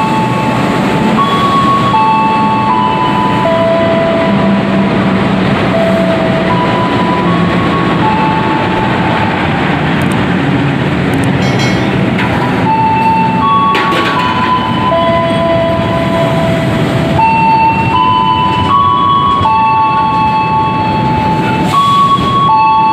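A passenger train passing on the adjacent track: a steady rumble and rush of its cars, with a few sharp clicks of wheels over the rail. A simple melody of held notes plays over it the whole time.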